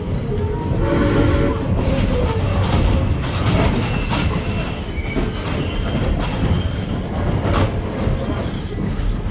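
Passenger railroad coach rolling along the track: a steady low rumble with scattered sharp clicks from the rails and faint high wheel squeal.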